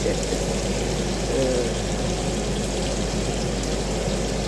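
Bacon frying, a steady, dense sizzle and crackle of fat.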